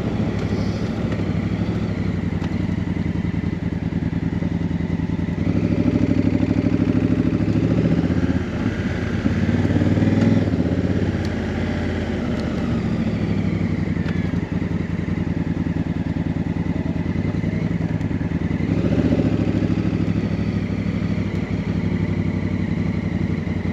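Honda CRF1000L Africa Twin's 998 cc parallel-twin engine running as the motorcycle is ridden, its note swelling under throttle several times.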